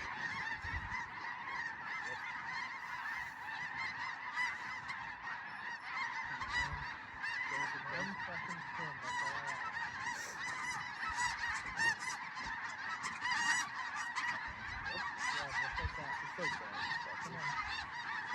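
A large flock of snow geese calling nonstop, a dense clamour of many overlapping short, high honks.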